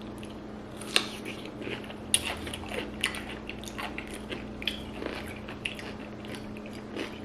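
People biting into crisp pickles soaked in ranch seasoning: sharp crunching snaps about one and two seconds in, then irregular crunchy chewing.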